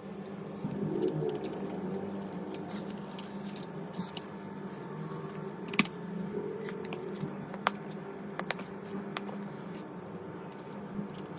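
Scattered small sharp clicks and light scraping of hand tools and small parts being handled on a bench, over a steady low hum.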